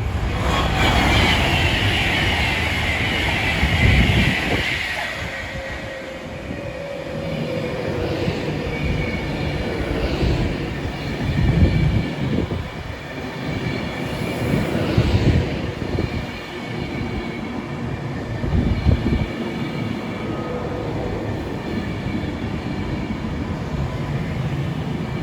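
A train running past the platform: continuous rail and wheel noise with low thumps from the wheels, and a high whine that falls in pitch over the first few seconds.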